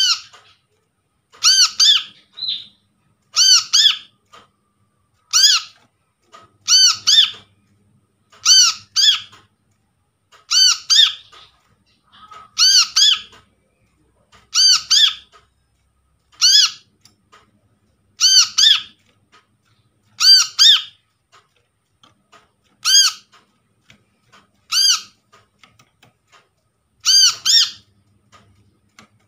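Brown-throated sunbird (kolibri kelapa) calling: short, sharp calls of about half a second, repeated about every one to two seconds, around fifteen in all.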